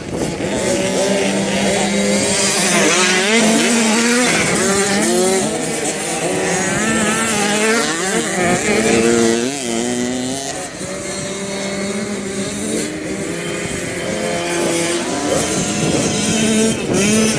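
Several motocross bikes riding the track, their engines revving up and down with the throttle; the overlapping pitches rise and fall constantly, busiest in the first half.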